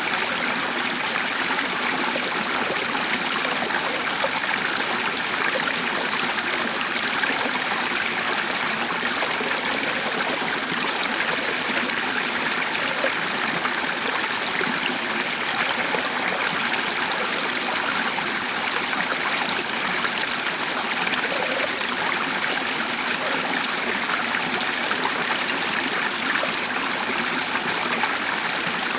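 A stream of water flowing steadily, an even rushing with trickling.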